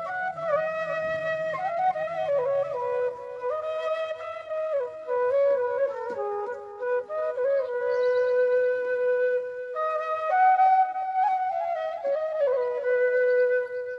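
Bamboo flute (bashi) playing a slow, ornamented melody, the notes stepping up and down, with one long held note about halfway through.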